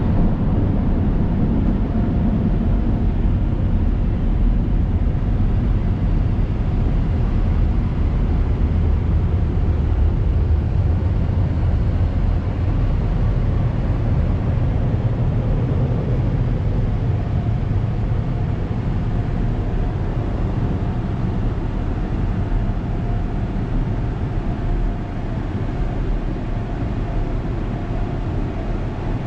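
PDQ Laserwash 360 touchless automatic car wash running: a loud, steady rushing noise, easing slightly near the end.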